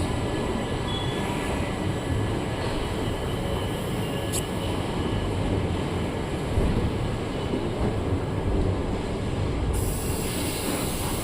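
Lingampally–Narsapur Express passenger train rolling steadily, a continuous rumble of wheels on rails, with a brief high squeal about four seconds in.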